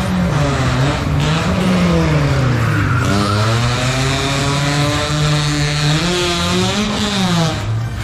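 A motor vehicle's engine revving hard, its pitch dipping and climbing, held high for several seconds, then dropping near the end, with tyres squealing.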